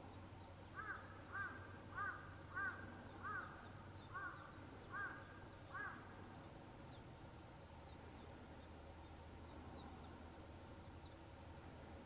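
A bird calling eight times in a row, short arched calls spaced a little over half a second apart, which stop about six seconds in. A faint steady low hum of background sound lies underneath.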